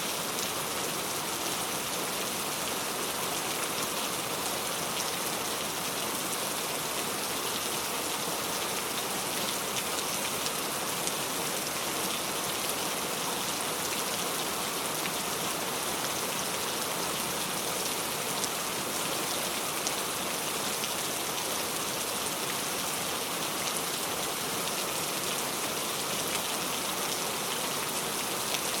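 Steady falling rain, a dense even hiss of raindrops pattering on a surface, with fine individual drop ticks.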